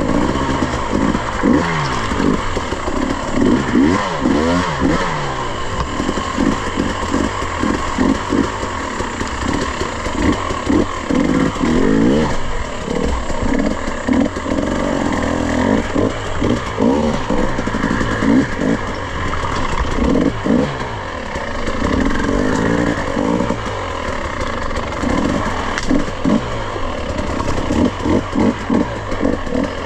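Off-road dirt bike engine revving up and down repeatedly as the throttle is worked on and off, with clattering from the bike over rough ground.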